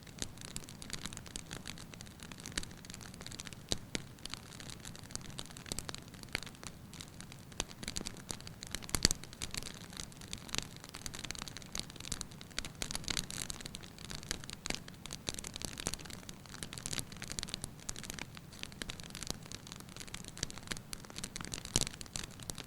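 Wood fire in a fireplace, the firewood crackling lightly with many irregular small pops over a soft steady hiss; a sharper pop about 9 s in and another near the end.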